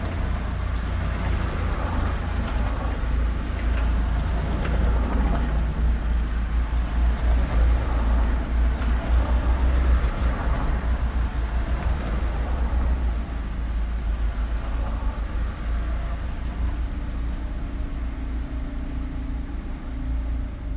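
Street traffic: road vehicles passing with a continuous low rumble that builds to its loudest about halfway through and then eases, leaving a steady engine hum near the end.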